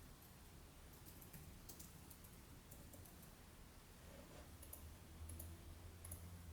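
Faint, irregular clicks in small clusters, like keys being tapped on a computer keyboard, over a steady low room hum.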